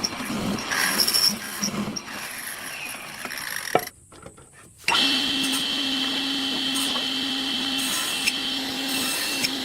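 Irregular workshop clatter and handling noise, then after a brief drop-out an electric power tool's motor comes in abruptly and runs steadily with a constant hum and high whine.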